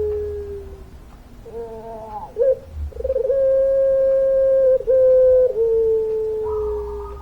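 A puter pelung, a domestic Barbary dove bred for its long voice, cooing in drawn-out notes: a held note that fades out in the first second, a short warbling rise, then a long steady coo of about four seconds that sags slightly in pitch near the end.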